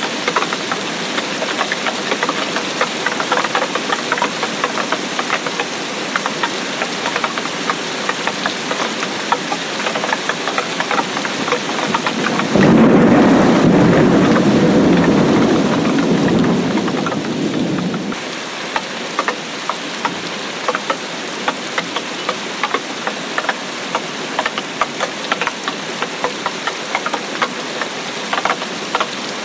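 Steady rain with many close drops pattering sharply. About twelve seconds in, a low rumble of thunder starts suddenly, runs for about five seconds and fades away.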